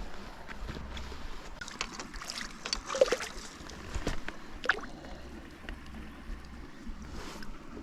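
Small splashes and knocks of water at the side of a canoe as a hooked brook trout is played and brought in by hand, a cluster of short sharp sounds about two to three seconds in and another near the middle.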